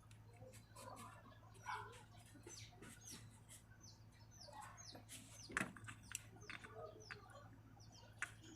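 Faint bird chirps, short quick downward-sliding notes repeated throughout, over a low steady hum, with a few sharp clicks, the loudest about five and a half seconds in.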